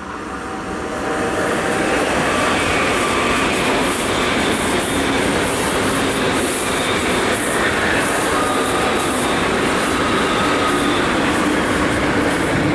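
A train passing on the tracks: the noise of its wheels on the rails builds over about two seconds, holds steady and loud, and begins to fade at the very end.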